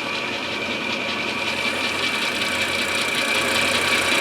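Milling machine running, its end mill cutting into an English walnut gunstock blank to inlet it: a steady machine noise with a constant high whine, growing slightly louder toward the end.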